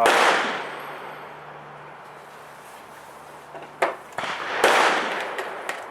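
Two gunshots, one at the start and one about four and a half seconds in, each ringing out with a long echo, and a sharp click shortly before the second.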